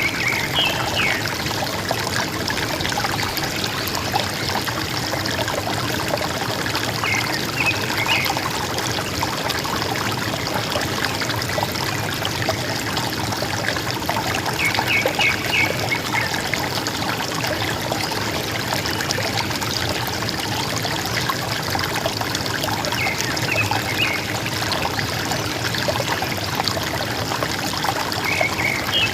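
River water gurgling and trickling steadily. Short bird calls of a few quick high notes break in about every seven to eight seconds.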